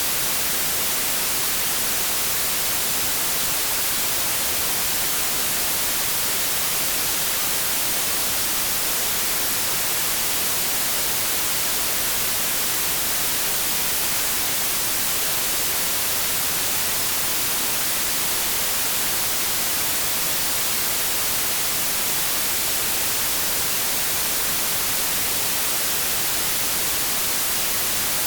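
Continuous synthetic white noise: a steady, unchanging hiss, brightest in the high range and thin in the bass.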